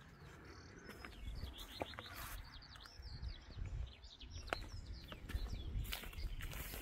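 Small birds chirping and twittering in many short, quick high notes, over a low, uneven rumble.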